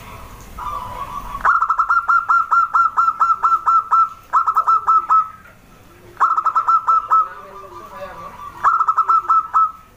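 Zebra dove (perkutut) calling: four loud bursts of quick, repeated cooing notes, about five a second, separated by a softer, lower purring coo.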